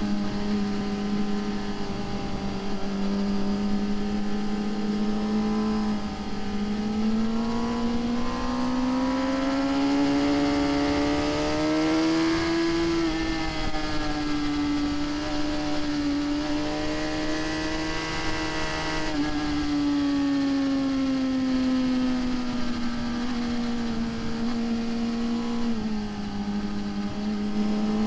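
Onboard sound of a Suzuki GSX-R sport bike's inline-four engine at speed on track, with steady wind rush. The engine note climbs for several seconds under throttle, holds, drops sharply about two-thirds of the way in as the throttle comes off, then sinks slowly and steps down a little near the end.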